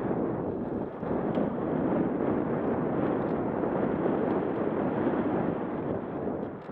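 Wind rushing over an action camera's microphone on a fast mountain-bike descent, mixed with the bike's tyres running over the dirt trail: a steady rushing noise with a few faint clicks.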